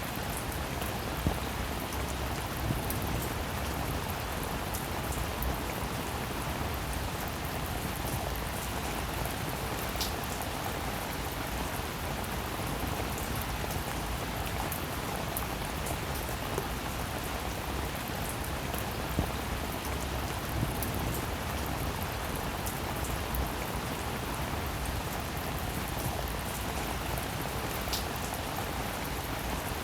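Steady rainfall: an even hiss with scattered sharp drop ticks, two clearer ones about ten seconds in and near the end.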